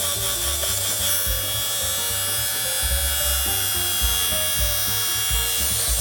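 Electric lint remover (fabric shaver) running steadily with a high motor whine as its blades shave pills off a knit scarf, over background music with a beat.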